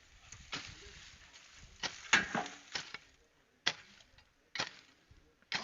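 Hand hoe (jembe) striking the ground in a series of sharp blows, roughly one a second; the loudest comes a little over two seconds in and trails off into a short scrape.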